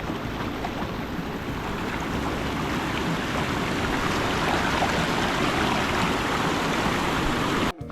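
Steady rushing hiss of falling water at the lower tier of Iruppu Falls on the Lakshmana Tirtha River, which has only a low flow here. It grows a little louder over the stretch and cuts out for a moment near the end.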